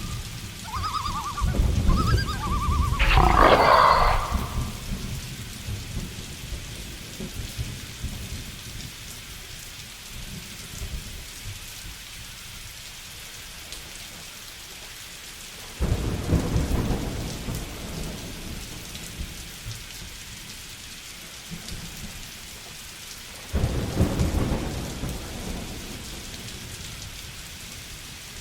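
Steady rain with thunder: a loud rumble in the first four seconds with an animal's pitched calls over it, then two thunderclaps about two-thirds of the way and near the end. Each clap starts suddenly and rolls away over a few seconds.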